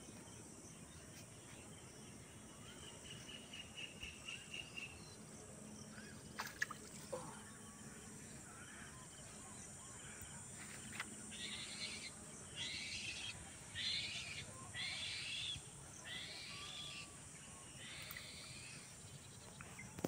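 Faint outdoor ambience with a bird calling: a quick trill about three seconds in, then a run of about six repeated calls in the second half.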